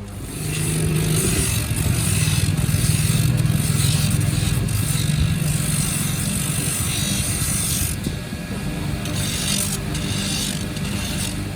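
A motor running steadily with a rough, noisy edge, easing off a little about eight seconds in.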